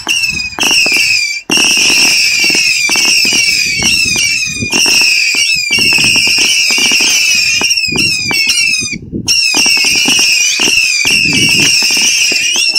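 Two Vulcan Saturn Missile 300-shot batteries firing together in rapid fire. Many overlapping high whistles from the rising missiles, with a steady stream of small pops and cracks. The firing drops out briefly about a second and a half in and again around nine seconds.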